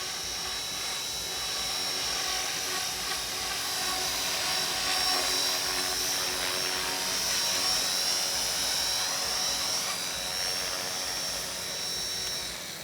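Radio-controlled model helicopter in flight: a steady high-pitched whine of motor and rotors that grows a little louder towards the middle, then eases off near the end.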